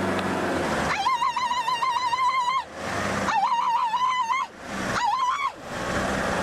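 Young elephant calf trumpeting in distress while trapped in a well: two long, wavering high calls and a short third one near the end. A vehicle engine runs steadily underneath.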